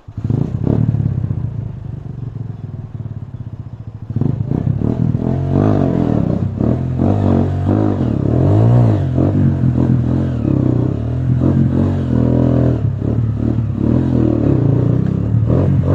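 Off-road trail motorcycle engine running and revving hard. Its pitch rises and falls again and again, and it gets louder about four seconds in.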